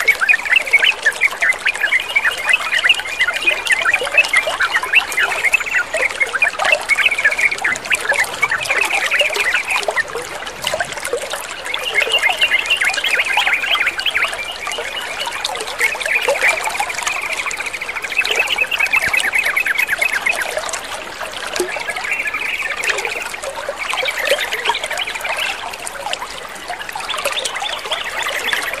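Trickling, splashing water mixed with songbirds chattering in rapid trills that come and go throughout, the kind of water-and-birdsong track used to set trucukan (yellow-vented bulbuls) singing.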